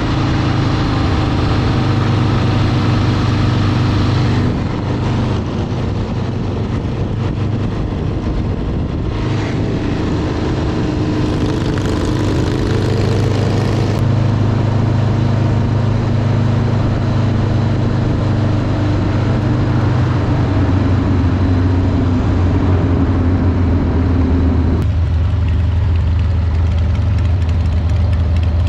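Motorcycle engine running as the bike is ridden, heard close from a camera mounted on the bike; a steady low drone whose pitch shifts several times.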